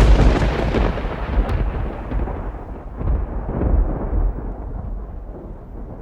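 A peal of thunder, loud at first and then rolling and fading slowly, with a few swells along the way.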